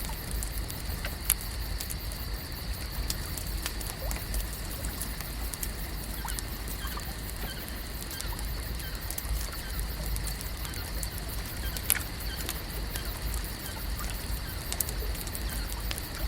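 Lake ambience: a steady wash of water with many small scattered clicks and ticks, two of them louder about a second in and near 12 seconds, over a low rumble and a steady high-pitched hum.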